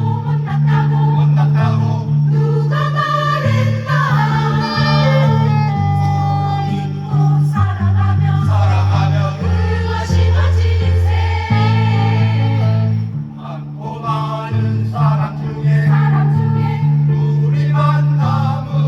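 Choir singing with instrumental accompaniment over a steady, sustained bass line.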